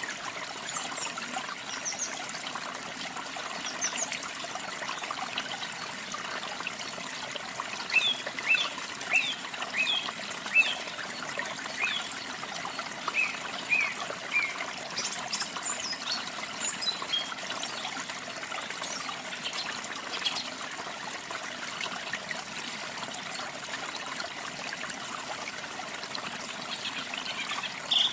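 Running water with a steady rush, and birds giving short, quick high chirps here and there, most often about a third of the way in and again just past the middle.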